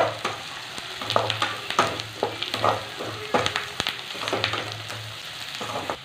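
Chopped onions and chillies frying in oil in an aluminium kadai, sizzling while a slotted metal spatula stirs and scrapes them in repeated, irregular strokes. The onions are being sautéed toward golden brown.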